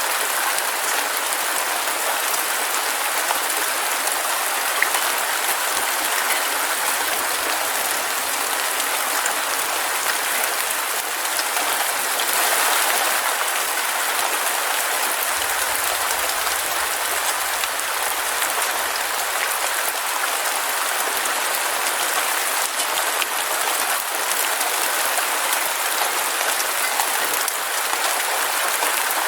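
Heavy rain falling steadily, a dense even hiss of drops with no pauses.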